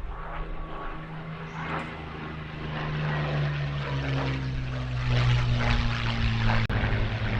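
Rolls-Royce Merlin V12 engine of a World War II piston fighter flying past, its engine note dropping in pitch about three seconds in and growing louder as it comes closer.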